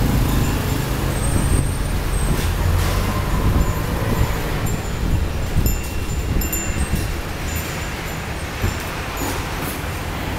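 Gusty storm wind buffeting the microphone with a fluctuating low rumble, with short high-pitched tinkling notes scattered through the middle.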